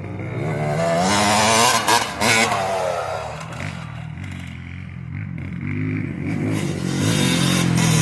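250cc motocross bike engine revving under acceleration. It climbs to a peak about two seconds in with a couple of quick throttle chops, eases off, then pulls hard again near the end.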